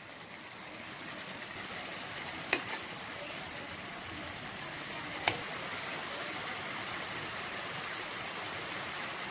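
Spicy chicken in a pot sizzling and simmering with a steady hiss, with two sharp clicks, one a couple of seconds in and another about halfway.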